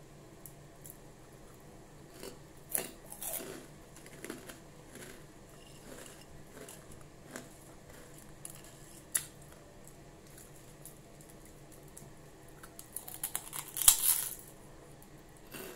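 Crisp chicharon (fried pork rinds) being bitten and chewed close to the microphone: scattered crackly crunches, with the loudest burst of crunching near the end as a piece is bitten off.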